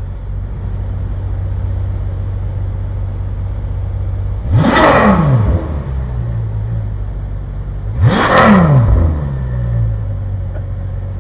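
Ferrari F12 TDF's naturally aspirated V12 idling, revved sharply twice, about four and a half and eight seconds in, each rev climbing fast and falling back to idle. It sounds marvelous.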